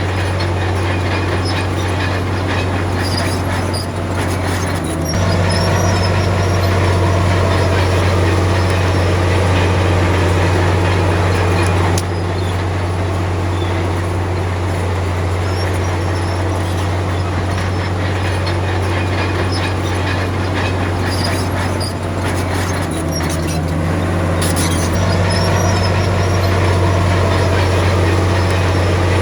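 Komatsu D53P bulldozer's diesel engine running under load with a steady low drone. It gets louder about five seconds in and again near the end, with stretches of rattling and clanking from the tracks.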